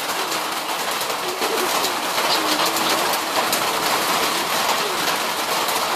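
Rain falling on a tin roof overhead: a steady, dense hiss of many drops on the metal. Faint, soft bird calls come and go under it.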